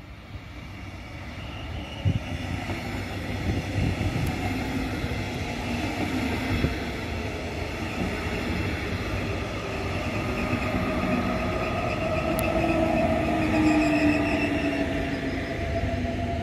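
Red double-deck regional train with an electric locomotive passing by on the rails: a steady rumble of wheels on track that builds over the first few seconds, with whining tones that shift in pitch. It is loudest near the end as the locomotive at the rear goes past, with a couple of short knocks from the wheels early on.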